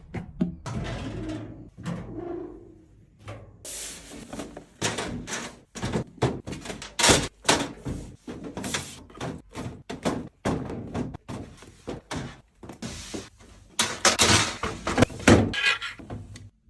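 Items being handled and set down while restocking: a rapid, irregular run of clicks, knocks and thuds, with rustling in between. The loudest stretches come about seven seconds in and again near the end.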